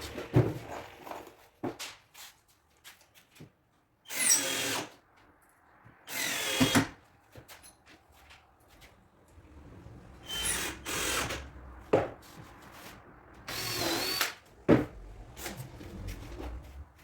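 Power drill-driver running in four short bursts of about a second each, driving screws, with small clicks and knocks between the bursts.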